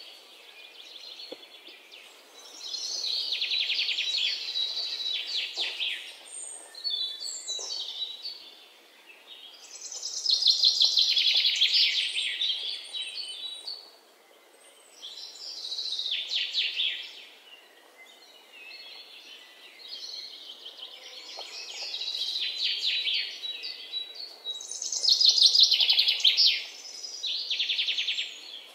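Birds chirping and trilling in repeated high-pitched phrases a second or two long, with short pauses between them.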